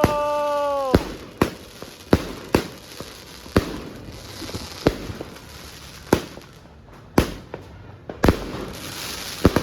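A 36-shot fireworks cake (repeater) firing shot after shot: sharp bangs about one a second, some half a second apart and some over a second apart.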